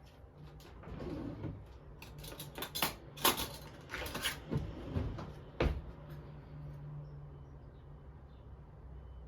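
Household handling sounds: a run of light knocks and clatters, the sharpest about three seconds in and the last just before six seconds, over a faint steady hum.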